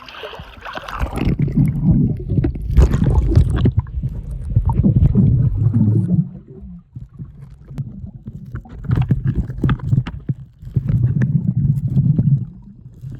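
Muffled underwater sound of a swimming pool picked up by a submerged phone microphone: low rumbling and gurgling bubbles in two long surges, with a quieter stretch in the middle.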